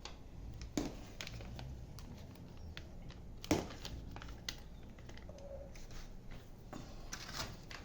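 Scattered light clinks and knocks of a spoon and dishes as corn porridge is served into small plates, with the sharpest knock about three and a half seconds in.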